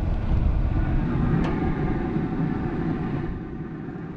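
Traeger pellet grill running while it heats up: a steady rushing noise from its combustion fan and fire, with a single sharp click about one and a half seconds in. The noise eases off near the end.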